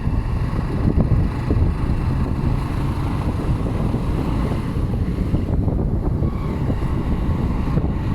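Wind buffeting the microphone during a ride on a motorcycle taxi, a steady low rumble with the motorcycle's running and road noise under it.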